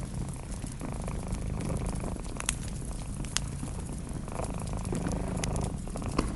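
A cat purring steadily in a low rumble, with the breath-by-breath swells of the purr. A wood fire crackles and pops through it in scattered sharp clicks.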